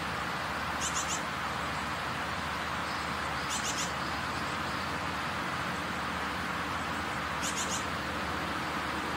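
A steady, even hiss of background noise, with three short runs of quick, high bird chirps about one, three and a half and seven and a half seconds in.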